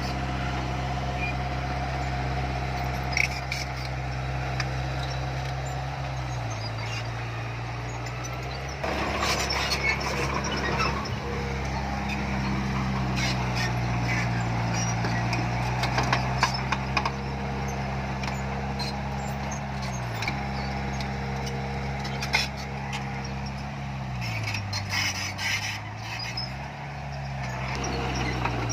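Diesel engine of heavy earthmoving machinery running steadily, its engine speed dipping and recovering several times. Scattered metallic clanks and rattles sound over it.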